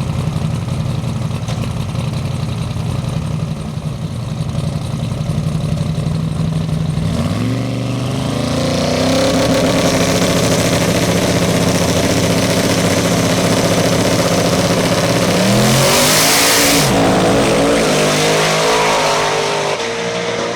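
Drag-race pickup truck engines running steadily on the line, then climbing in pitch about seven seconds in as they launch and run hard down the track. About sixteen seconds in there is a brief rush of hiss and a quick dip in pitch, and the engine note falls near the end.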